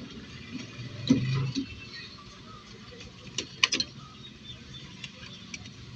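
Sporadic handling noises at a ceiling-fan coil winding machine: a short knock about a second in, then a few sharp light clicks about three and a half seconds in.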